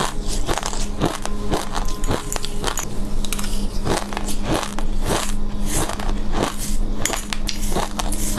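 Close-up crunching and crackling of a seed mix being chewed, a quick irregular run of sharp crackles several times a second.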